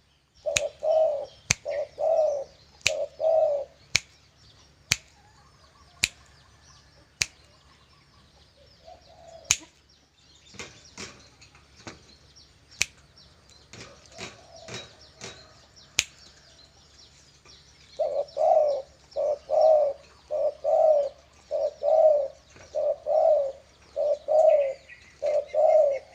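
Captive spotted dove cooing in groups of low, repeated notes, three near the start and a longer run in the last eight seconds. Sharp finger snaps about a second apart cut through the first half to make the bird call.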